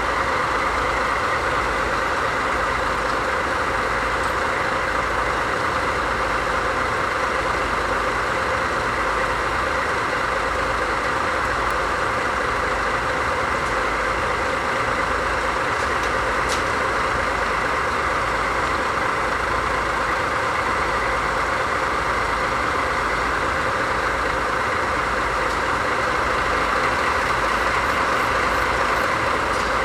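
DD51 diesel-hydraulic locomotive's V12 diesel engine idling steadily, a low throb under a constant high hum.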